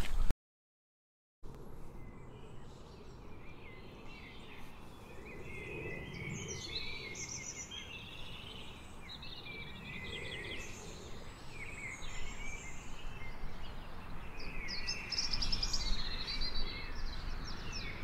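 Small birds calling and chirping over a steady outdoor background hiss, after about a second of dead silence near the start. The calls come thickest near the end.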